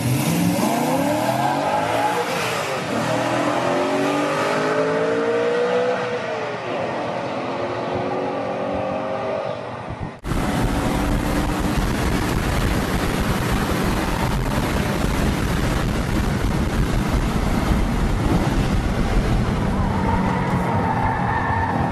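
BMW M3 cars pulling away down the pit lane, their engines revving so that the pitch climbs and falls several times. After a sudden cut about ten seconds in, an M3 at speed on the track is heard from inside the cabin: steady engine, wind and road noise with a heavy low rumble.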